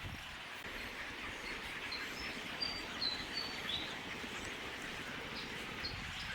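A bird chirping a string of short, high notes about two to four seconds in, over a steady outdoor background hiss.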